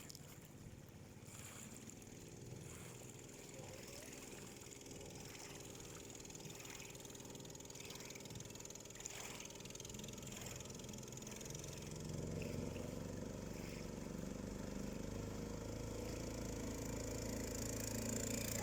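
Engine of a homemade swamp buggy running steadily, faint at first and growing gradually louder throughout.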